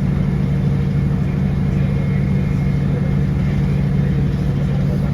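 Class 156 diesel multiple unit's underfloor Cummins six-cylinder diesel engine running under steady power, giving a constant low hum with a faint higher whine above it.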